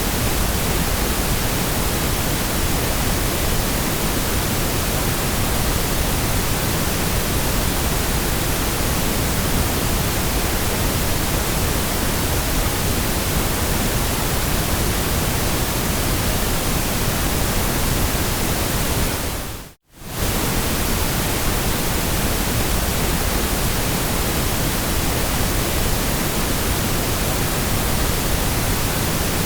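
Steady white noise: an even, unchanging hiss across the whole range from deep rumble to high treble. About twenty seconds in it drops briefly to silence and fades straight back in.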